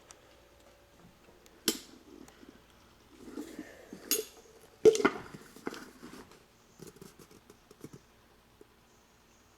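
A few sharp metallic clicks and clatters at irregular intervals, the loudest about five seconds in, with lighter rattling after it.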